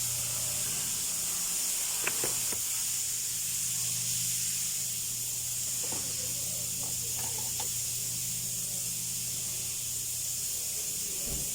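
Steady high hiss with a low, even hum underneath, and a few faint clicks about two, six and seven seconds in.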